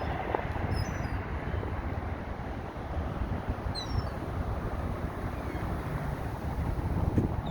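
Steady wind rumble on the microphone, with a few faint, high, short bird chirps about a second in and again around four seconds.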